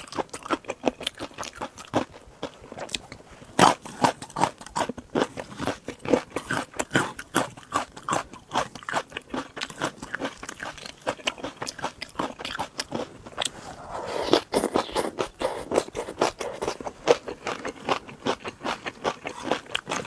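Close-miked eating: a person biting and chewing crunchy seafood, with rapid sharp crunches several times a second and a denser burst of crunching about two-thirds of the way in.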